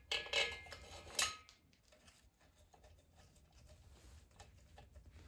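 Metal engine parts clattering and clinking as they are handled and set in place, a burst of clinks with one sharp clank about a second in, then quiet handling.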